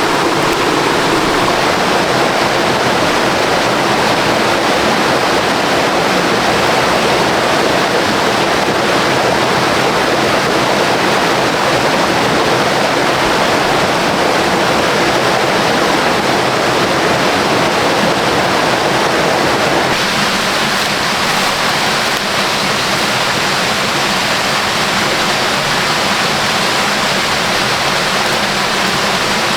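Waterfall and rapids, a loud steady rush of water, its tone shifting slightly about two-thirds of the way through.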